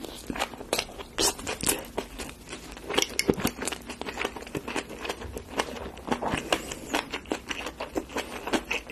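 Close-miked chewing of a mouthful of spicy seafood and bean sprouts: a dense run of quick wet clicks, crunches and mouth smacks.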